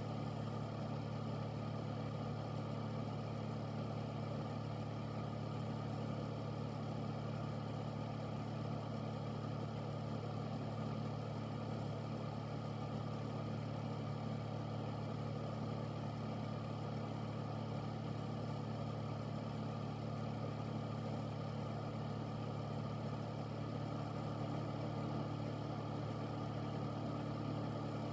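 Air filter running steadily: an even motor hum under a whoosh of moving air. A slightly higher hum tone joins near the end.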